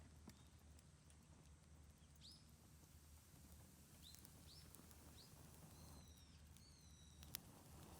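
Faint bird calls: several short rising chirps, then two longer falling calls near the end, over a low steady background hum, with one sharp click near the end.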